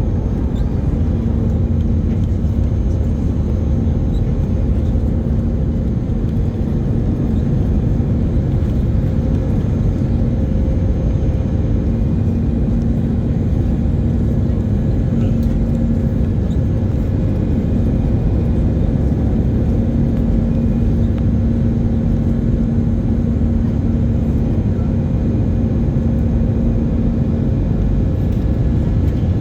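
Airbus A320 jet engines and airflow heard as a steady, loud low drone during the takeoff climb, with a faint steady hum over it.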